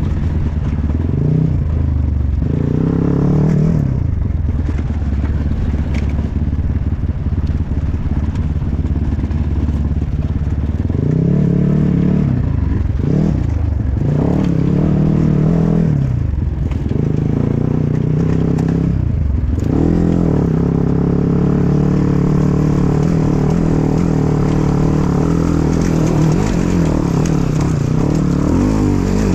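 Enduro dirt bike engine being ridden hard, its pitch rising and falling with the throttle: it is shut off and opened again several times in the first two-thirds, then held higher and steadier near the end.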